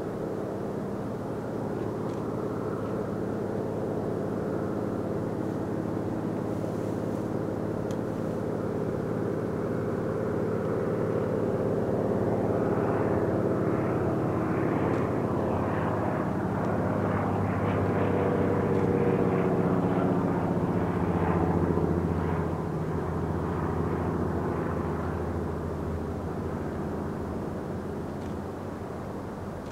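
Rhaetian Railway Capricorn electric multiple units passing in a long train, a steady mechanical hum with several pitched tones. It swells louder through the middle and fades toward the end.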